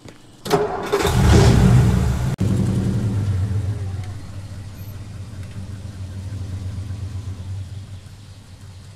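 A car door shuts, then a 1950s car's engine starts with a rev and runs on steadily, slowly getting quieter.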